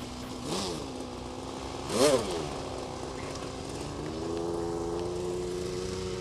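Small engine of a radio-controlled F-16 model jet running, revved up and straight back down in two quick blips, then held steady, stepping up to a higher speed about four seconds in.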